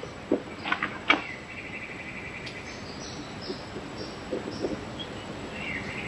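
Bird calls over a faint outdoor background: a rapid high trill about a second and a half in, a run of short, higher chirps, and another trill near the end. A few short, sharp sounds come in the first second, the loudest about a second in.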